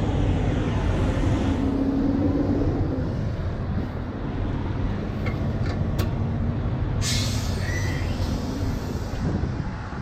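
Heavy diesel truck engine idling steadily, with a sharp burst of compressed air hissing for about two seconds, about seven seconds in.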